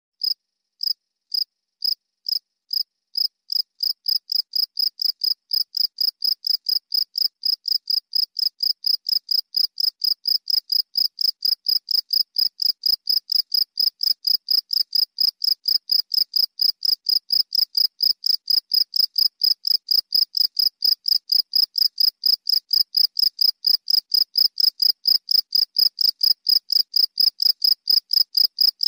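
A cricket chirping in a steady rhythm of short, high-pitched chirps. The chirps start out about half a second apart and within a few seconds settle into an even pace of roughly three a second.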